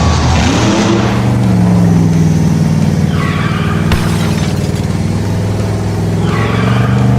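A vehicle engine running steadily, its pitch shifting a little about a second and a half in, with two short falling screeches, one about three seconds in and one near the end.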